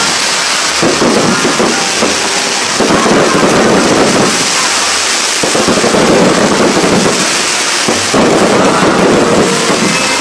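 A fireworks display going off: a loud, unbroken crackle with four swells of heavier bursts, each lasting a second or two.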